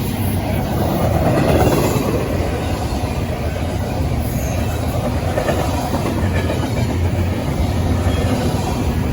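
A train rolling past on the rails: a loud, steady run of railcar and wheel noise.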